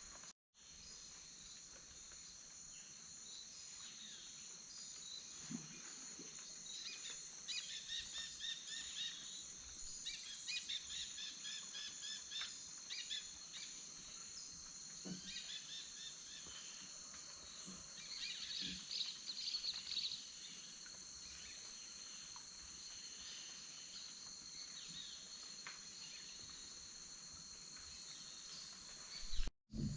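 Faint Amazon rainforest ambience: a steady high-pitched insect drone, with birds calling in quick runs of repeated notes from about seven to twenty seconds in.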